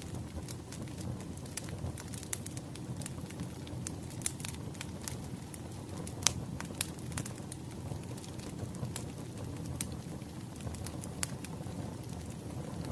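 Wood fire crackling: a steady low rumble of burning logs with scattered sharp pops, the loudest about six seconds in.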